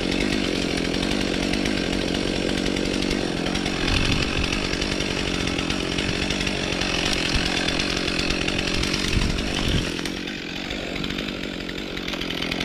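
Stihl MS 362 C two-stroke chainsaw running at high revs, steadily cutting through birch wood; the sound eases off slightly about ten seconds in.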